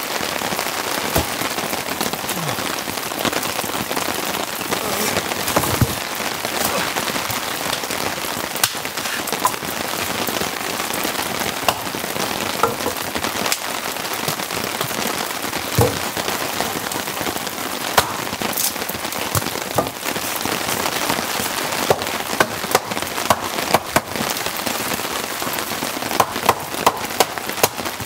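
Heavy rain falling steadily as a dense hiss, with scattered sharp knocks and taps that come more often near the end.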